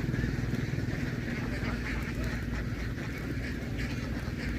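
A large flock of domestic ducks quacking together in a dense, continuous chorus, with an engine running low and steady underneath.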